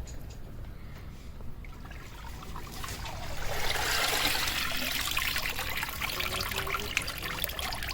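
Water trickling and splashing, swelling about three seconds in and going on with many small drips and splashes, over a low steady rumble.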